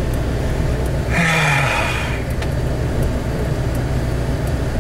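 Steady engine and road noise heard inside the cab of a four-wheel-drive vehicle creeping along a snow-covered road, with a brief hiss about a second in.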